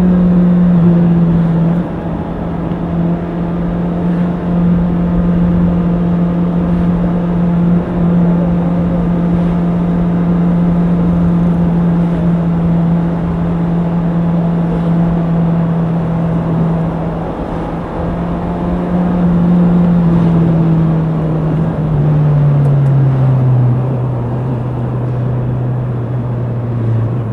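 Honda CBR650R inline-four engine running at a steady, fairly high engine speed, with an even, continuous note. Near the end the note drops in pitch as the revs come down.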